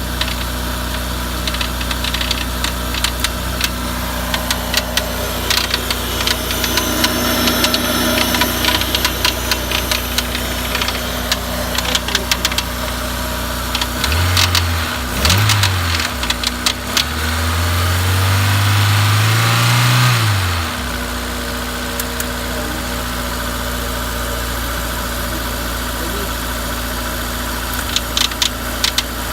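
Honda S2000's F20C 2.0-litre four-cylinder idling with a sharp, repeated ticking or knocking. About halfway through it is blipped twice, then revved up for a few seconds and let drop back to idle. The cause is unknown to the owner: the timing chain tensioner is new, and the rod bearings, thrust bearing and head all check out.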